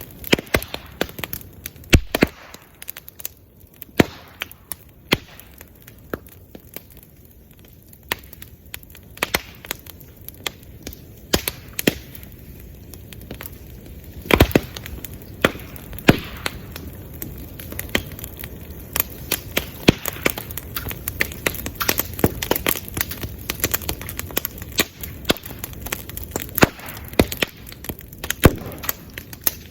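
Bamboo bonfire burning: constant crackling with many sharp pops and cracks, the loudest about two seconds and about fourteen seconds in. The pops are bamboo sections bursting in the heat.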